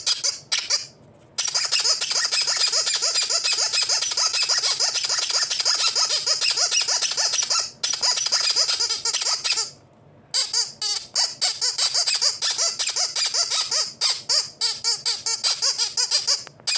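Rapid runs of short, high-pitched squeaks, many a second, broken by brief pauses about a second in, near eight seconds in and about ten seconds in.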